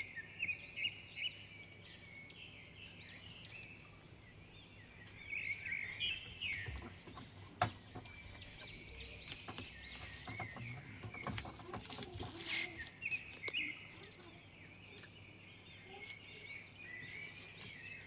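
A bird chirping in many short, high calls, with a few sharp knocks and clicks mixed in.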